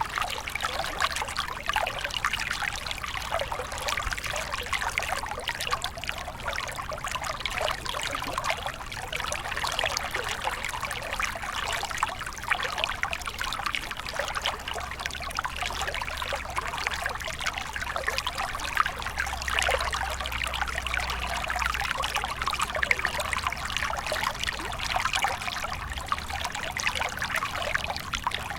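Shallow stream flowing steadily, water trickling and splashing over stones.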